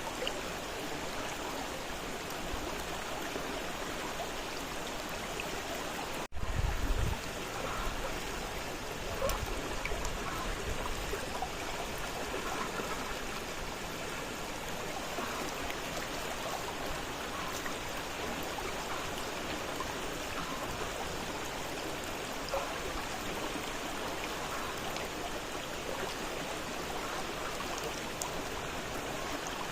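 Fast-flowing river running steadily. About six seconds in the sound breaks off for an instant, then a low rumble follows for about a second, with weaker rumbles a few seconds later.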